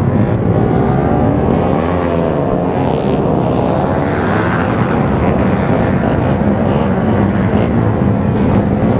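Yamaha RX King 135cc two-stroke single-cylinder engine running under way through an aftermarket side expansion exhaust, its pitch rising and falling a few times as the throttle is worked.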